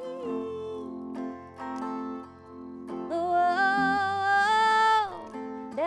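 Live acoustic country-folk music in a break between sung lines: acoustic guitar picking, with a long held note coming in about three seconds in and sliding down near the end.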